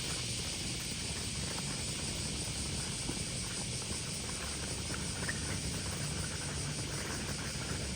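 Steady outdoor ambience: an even hiss with no distinct sounds standing out.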